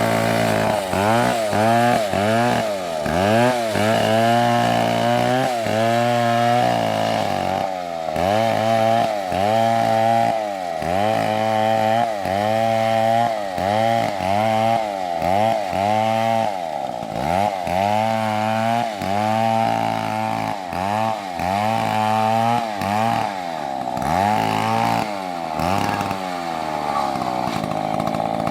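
Two-stroke chainsaw cutting wood at high revs, its engine pitch dipping and recovering about once a second as the chain loads up in the cut. It winds down near the end.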